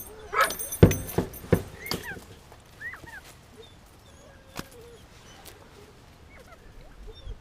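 Hunting dogs whining, with a few sharp knocks in the first two seconds, then only short, faint high whines now and then.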